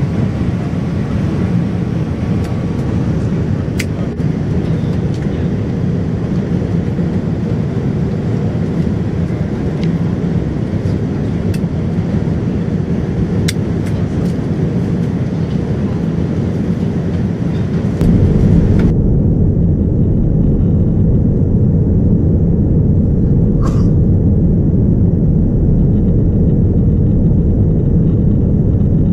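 Steady rushing cabin noise inside a Boeing 787-9 airliner, heard from a seat over the wing. About eighteen seconds in it changes abruptly to a louder, deeper and duller version of the same steady noise, with a few faint clicks before the change.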